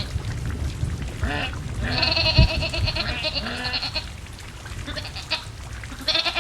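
Goats bleating: several wavering calls, the longest lasting about two seconds, over a steady low rumbling noise, with a sharp low thump about two and a half seconds in.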